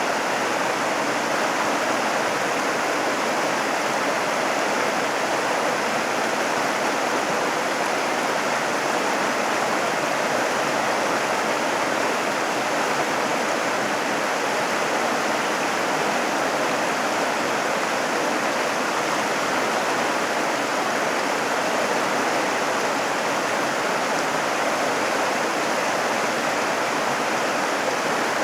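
Steady, even rushing of water that holds the same loudness throughout.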